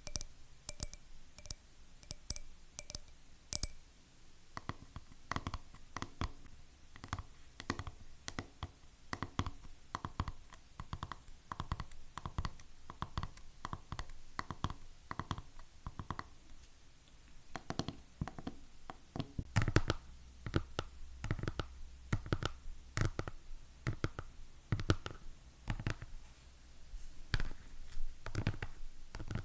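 Fingernails tapping rapidly on hard objects, with some scratching. The first few taps ring with a clear glassy note; from about two-thirds of the way in the taps become louder and deeper, with a dull thud.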